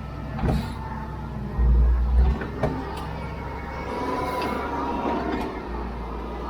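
Heavy machinery's diesel engine running with a low rumble that swells briefly about two seconds in, with several sharp knocks and clanks.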